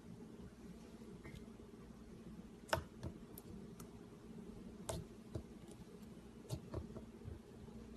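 Scattered light clicks and taps from small objects being handled, over a steady low hum. The two sharpest clicks come about three and five seconds in.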